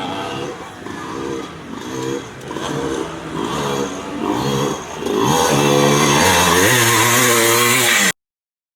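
Vintage motocross bike engines revving hard, the pitch climbing and dropping again and again as the riders work the throttle and shift. The sound grows louder about five seconds in as a bike runs close by, then cuts off suddenly near the end.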